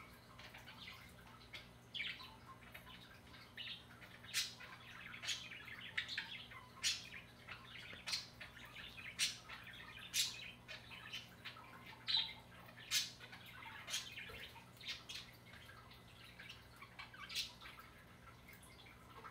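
Small birds chirping: short, sharp, high chirps at irregular intervals, about one or two a second, over a faint steady low hum.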